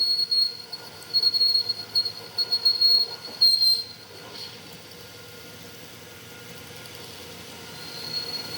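High-pitched metal-on-metal squeal from metal machining, coming and going in loud stretches over the first four seconds, then dropping to a quieter steady running sound.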